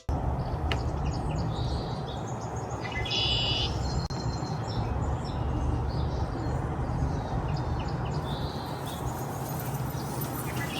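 Small birds chirping a few times, in short high calls, over a steady low outdoor rumble.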